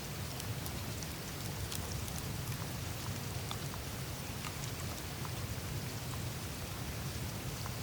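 Melting glacier ice surface: dense, fine ticking and dripping of meltwater and crackling ice, like light rain, over a low steady rumble of water flowing through the ice.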